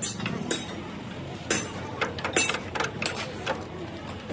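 Irregular sharp metallic clinks and knocks, about eight of them, each with a short ring: tools and metal parts striking steel.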